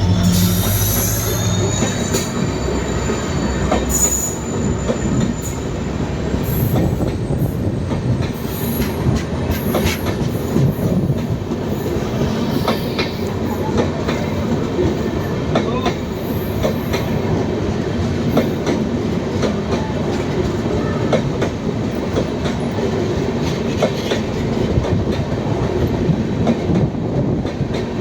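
LHB passenger coaches of a diesel-hauled express train passing at speed, wheels clattering over rail joints in a steady rumble with many short clicks. A high whine rises over the first few seconds.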